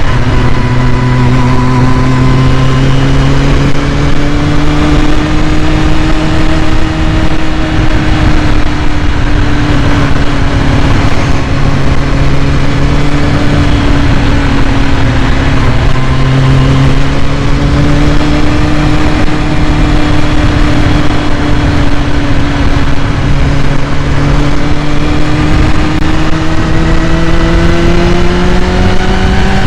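2001 Kawasaki ZX-6R's carbureted inline-four idling steadily while warming up from a cold start. Its pitch wanders slightly and rises a little near the end.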